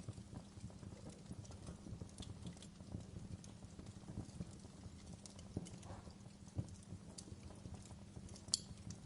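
Fire crackling in a fireplace: a steady stream of small crackles over a low rumble, with one sharp, louder pop near the end.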